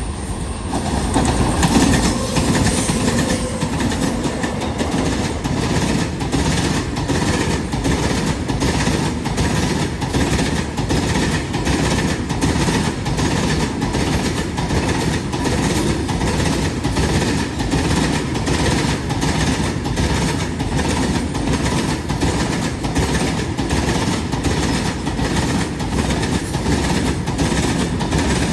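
Railway wagon wheels clattering over rail joints in a steady, even rhythm of clicks over a continuous rumble.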